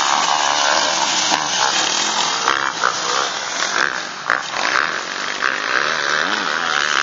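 Motocross bike engines running hard, their pitch rising and falling as the riders rev and shift, with a few sharp clicks.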